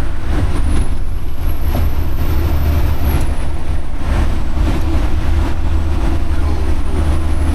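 Diesel semi-truck engine running with a steady, heavy low rumble.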